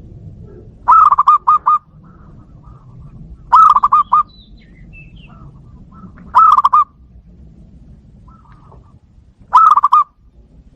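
Zebra doves (perkutut) calling back and forth. Four loud phrases of quick staccato coos come about every three seconds, with fainter coos in between.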